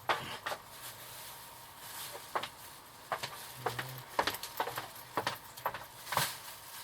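Scattered light clicks and taps at irregular intervals, as of small objects being handled, with a brief low murmur near the middle.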